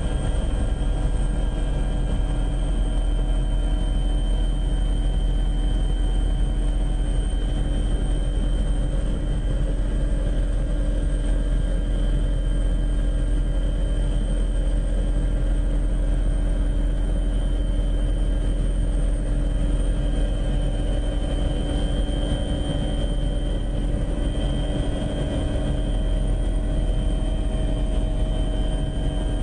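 Steady drone of an aircraft's engine, a deep rumble with several constant whining tones running through it, unchanging throughout.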